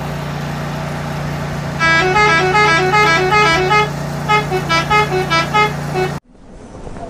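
Electronic toy-style tune: a steady hum under a melody of short, beeping horn-like notes that starts about two seconds in. Both cut off suddenly near the end.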